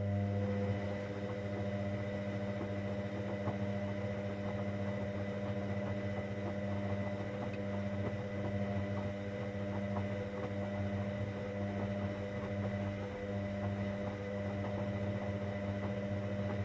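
Hoover Dynamic Next washing machine giving a steady electrical hum for about 17 seconds, switching on and cutting off abruptly, with faint water noise under it.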